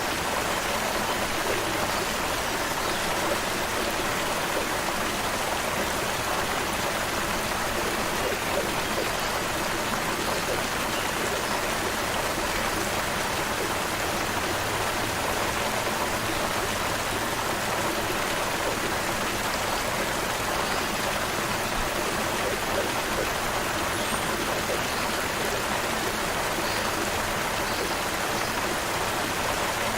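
Creek water running steadily over rocks, a continuous even rushing and burbling.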